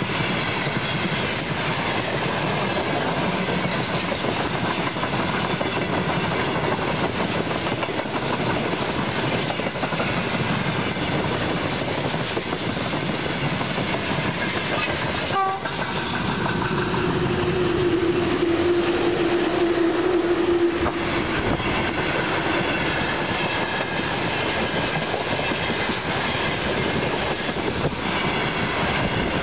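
Freight train rolling past at close range, wheels clicking steadily over the rail joints. About halfway through, a VL11 electric locomotive sounds its loud tifon horn in one steady low blast of about four seconds.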